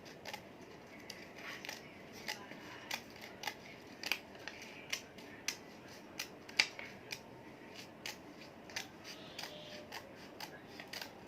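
Scissors cutting paper: a steady run of short, sharp snips about two a second, the loudest about six and a half seconds in.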